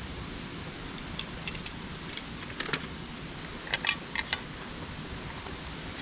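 A run of light, sharp clinks and clicks, some briefly ringing, in two clusters about a second apart, over a steady background rush.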